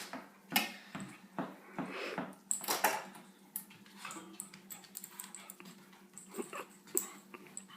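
Dog making short vocal sounds, several in the first three seconds and then fainter clicks and taps, reacting in fear to a live lobster. A steady low hum runs underneath.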